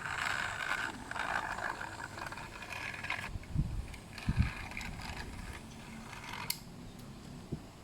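A small battery-powered toy's motor and gears whirring steadily, with two low knocks midway. A sharp click about six and a half seconds in, after which the whirring stops.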